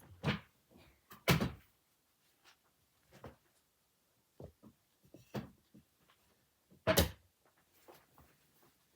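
A few scattered knocks and bumps, the loudest about a second and a half in and again near seven seconds, with fainter ones between.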